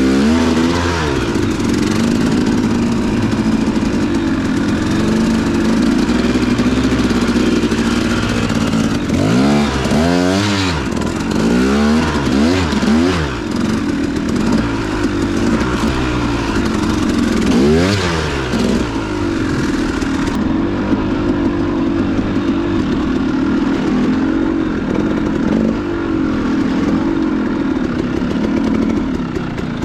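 Dirt bike engine running under way, its revs rising and falling sharply several times in a row about nine seconds in, and once more later.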